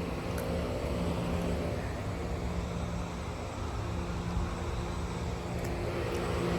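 Air-conditioning unit running: a steady hum over a constant rumble.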